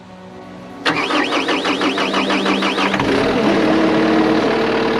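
Husqvarna riding lawnmower engine cranking on its electric starter with a fast, even rhythm, catching about three seconds in and settling into a steady idle.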